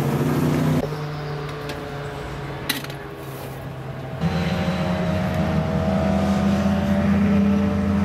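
A vehicle engine running steadily at a constant pitch, with a single sharp click a little under three seconds in.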